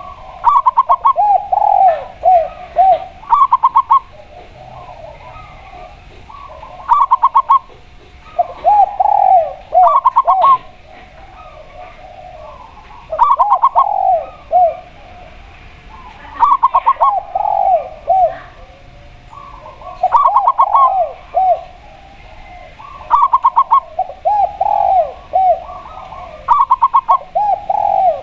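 Zebra dove (perkutut) singing its cooing song over and over. Each phrase is a quick run of short staccato notes followed by a few lower, arched coos, and the phrases come every few seconds.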